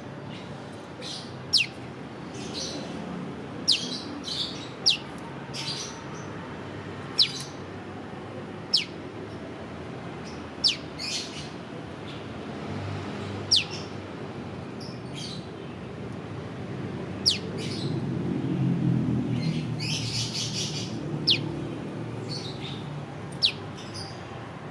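Olive-backed tailorbird giving its sharp "piw" call: single whistled notes that drop steeply in pitch, repeated every second or two. A low rumble swells in the background about three quarters of the way through.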